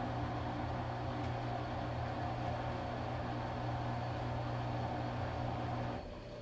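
Washing machine running with a steady motor hum and drum noise, which cuts out abruptly about six seconds in.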